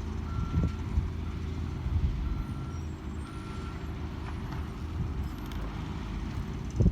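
Garbage truck backing up: its reverse alarm beeps a steady tone about once a second over the truck's engine running, and the beeps stop about halfway through.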